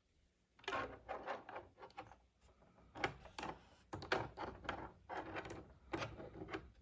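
Small plastic toy pieces being handled and set down on a plastic playset: a run of light clicks and clatters, irregular and close together.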